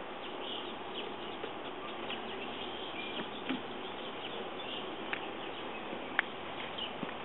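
Honeybees buzzing steadily around an opened hive, with a few light clicks and short chirps over it.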